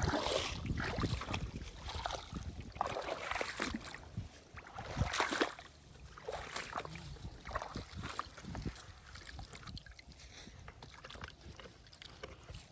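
Water sloshing and splashing in irregular bursts, the loudest near the start and about five seconds in, with wind rumbling on the microphone.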